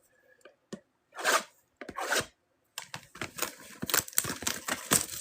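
Packaging being torn open on a mega box of football trading cards: two short rips, one about a second in and one at two seconds, then a steady run of crinkling and crackling.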